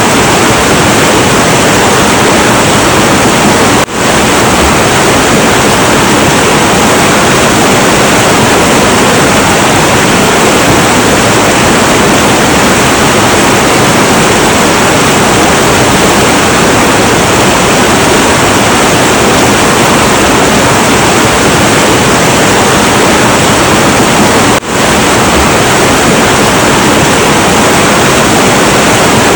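Heavy, turbulent river water rushing in a steady, dense roar, with two momentary dips in level, about four seconds in and again about five seconds before the end.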